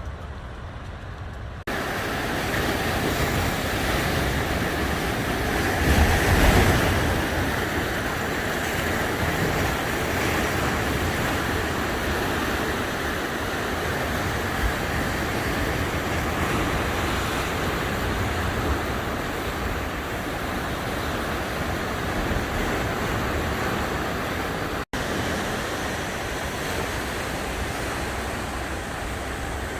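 Ocean surf breaking on a sandy beach, a steady rushing wash of rough waves with one louder surge about six seconds in.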